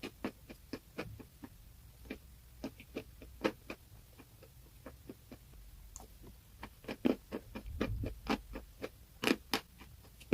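Close-miked crunching of something brittle being bitten and chewed: irregular crisp cracks and clicks, sparse at first, then denser and louder in the second half.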